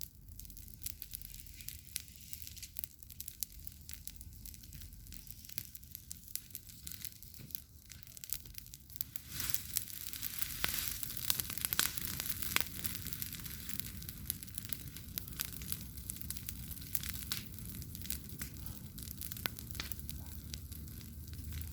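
Campfire burning, with a steady crackle of sharp pops and snaps over a faint hiss. About nine seconds in it flares up for a few seconds, with denser, louder crackling and hissing, then settles back to an even crackle.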